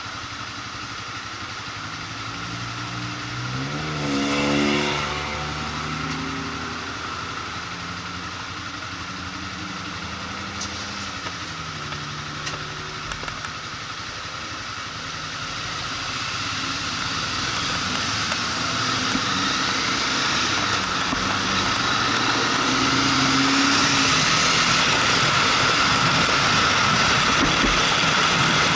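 Motorcycle engine on the move: it revs up and back down once, about four seconds in, then runs more steadily while a rushing wind and road noise grows louder over the second half.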